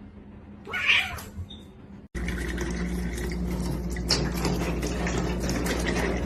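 A cat meowing once, briefly, about a second in. About two seconds in, a steady low hum starts abruptly and runs under faint scattered noises.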